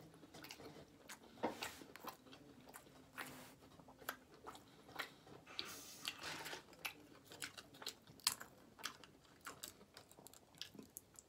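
A person chewing a mouthful of cheesy burrito, with irregular wet mouth clicks and crunches.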